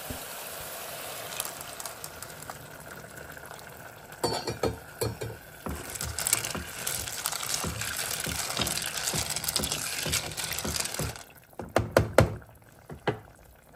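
Snails in their shells frying in a pot while a wooden spoon stirs them, the shells clicking against each other and the pot over a steady sizzle. About six seconds in, liquid is in the hot pot and the hiss grows louder; a few sharp knocks of the spoon on the pot come near the end.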